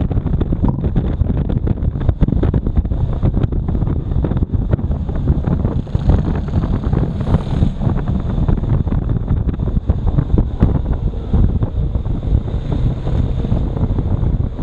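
Wind buffeting the microphone of a camera on a moving motorcycle: a dense, steady rumble of wind and road noise.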